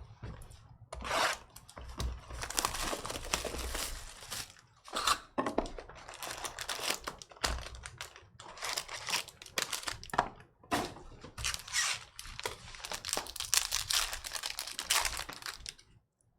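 Foil trading-card pack wrappers being torn open and crumpled: a long run of crinkling rips and rustles that stops abruptly near the end.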